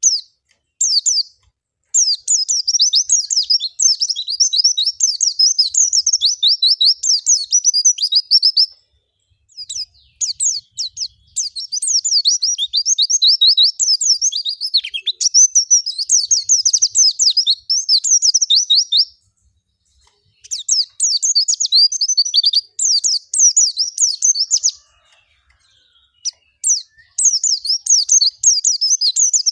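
White-eye (pleci) song: long, fast twittering phrases of high chirps and trills, each running several seconds with brief pauses between them. It is a 'gacor' full-repertoire song played as a lure to prompt other white-eyes to sing.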